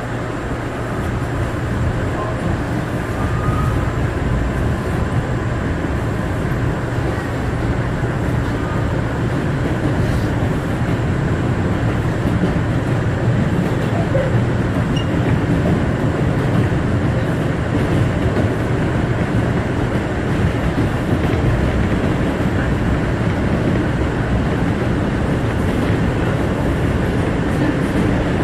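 Bombardier R179 subway car running at speed between stations, heard from inside the car: a steady rumble of wheels on rail that builds over the first few seconds as the train picks up speed, then holds.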